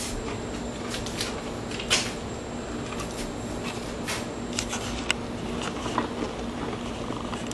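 Indoor room tone: a steady low hum with a faint high whine, and scattered light clicks and taps every second or so.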